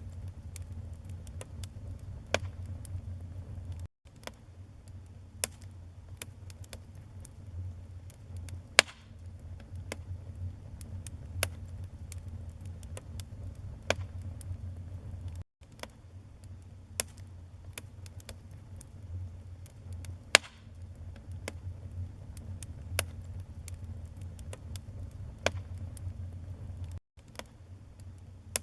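Wood fire burning in a fireplace: a steady low rumble of flames with irregular sharp crackles and pops from the burning logs, two of them much louder. The sound cuts out for an instant three times.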